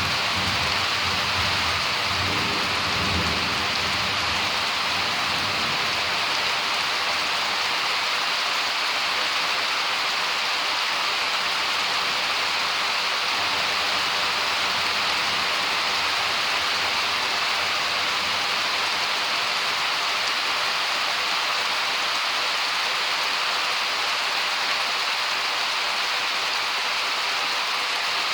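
Steady rain from a summer thunderstorm, an even hiss that holds throughout. A low rumble of distant thunder fades out in the first few seconds.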